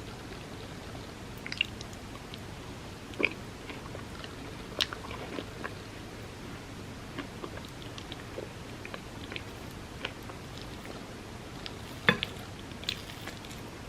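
Close-up eating sounds: wet chewing, smacks and small mouth clicks from someone eating soft chocolate cake soaked in warm almond milk. The sounds come irregularly over a steady hiss, with a louder click near the end.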